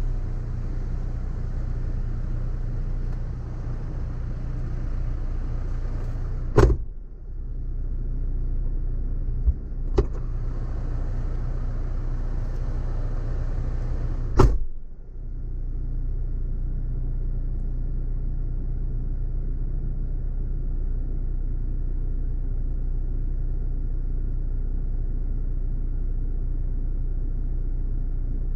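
Car engine running steadily with a low hum, heard from inside the vehicle. Three sharp clicks or knocks cut in, about a third, a half and two thirds of the way through; after the last one the background hiss turns duller.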